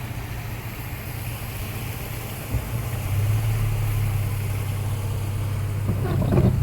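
Toyota FJ Cruiser's 4.0-litre V6 running at low speed, a steady low hum heard inside the cabin that grows louder about three seconds in. A short burst of noise comes near the end.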